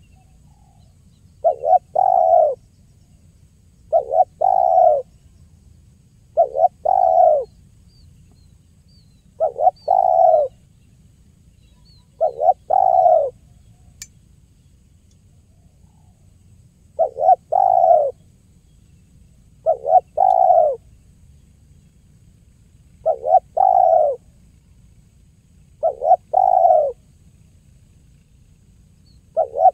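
Spotted dove (tekukur) cooing in its 'kuk 1' song. A two-part coo phrase repeats about every three seconds, about ten times, with a longer pause near the middle.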